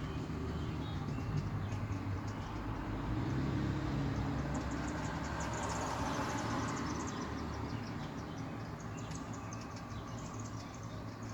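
Squirrel gnawing on a deer antler: rapid, fine scraping ticks from its teeth, coming in runs through the middle and later part, over a steady low rumble.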